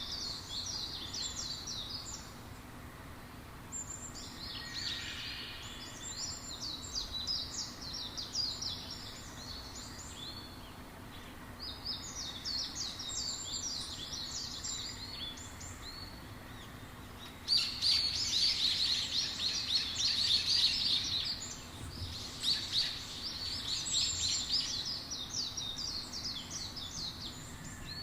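Small songbirds twittering: phrases of rapid, high chirps a few seconds long with short pauses between, the loudest phrase about two-thirds of the way through, over a faint steady background hiss.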